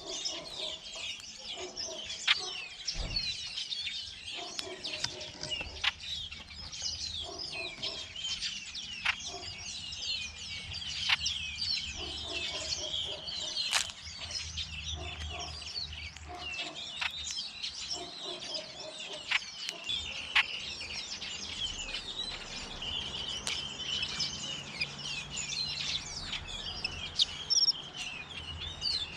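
A busy chorus of small birds making many short, overlapping chirps, with sharp clicks every second or two. A lower call repeats now and then through the first two-thirds.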